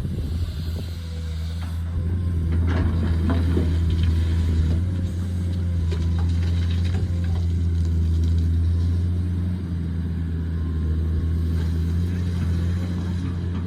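Excavator's diesel engine running steadily at a low, even hum, with a few scattered knocks a few seconds in.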